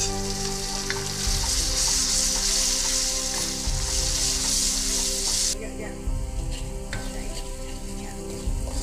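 Curry paste of shallots, garlic and curry powder sizzling in oil and water in a wok while stirred with a wooden spatula. The loud sizzle drops off sharply about five and a half seconds in, leaving quieter frying with a few light knocks of the spatula on the wok.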